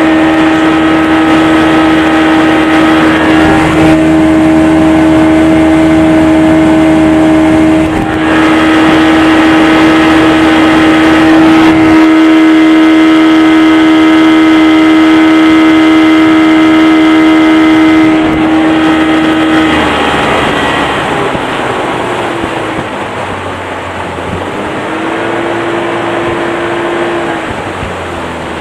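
Two-stroke, two-cylinder 40 hp Mariner (Yamaha-built) outboard with freshly cleaned carburetors running under way at a steady high pitch, then throttled back about two-thirds of the way through so its pitch and loudness drop, with a brief rise in revs near the end.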